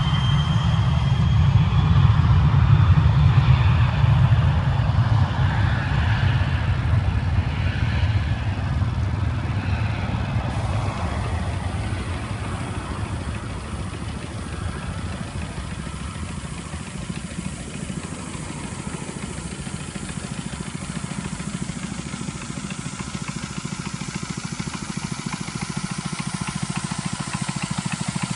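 Engine running steadily with a low rumble, loudest for the first ten seconds or so, then easing off a little and running on evenly.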